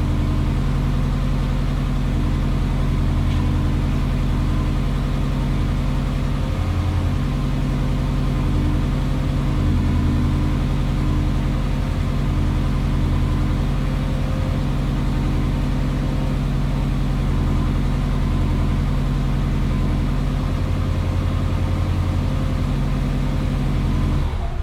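Subaru flat-four engine idling steadily through a straight exhaust with a 3-inch downpipe, 3-inch centre section and 2.5-inch Scorpion rear section, after a cold start; the sound is deepest in the low range. Near the end it dies away.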